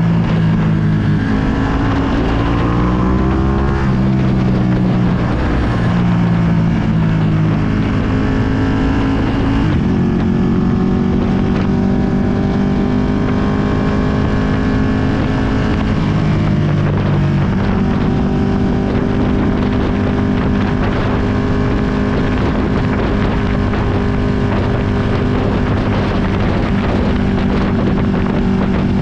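2020 Ducati Panigale V2's 955 cc V-twin through a full Akrapovic exhaust while riding. It revs up and drops back through gear changes several times in the first ten seconds, then holds a steady note with small changes in engine speed. Wind noise runs over the microphone.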